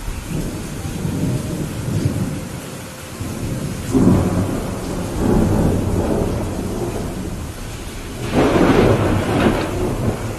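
Thunderstorm: steady rain with rolling thunder. The rumbles build from about a second in, swell sharply about four seconds in, and the loudest crackling peal comes near the end.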